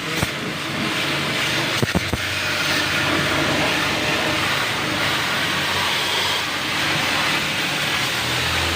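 High-pressure washer running, its water jet hissing steadily as it sprays an air conditioner's outdoor condenser, over a steady low motor hum. A few short knocks about two seconds in.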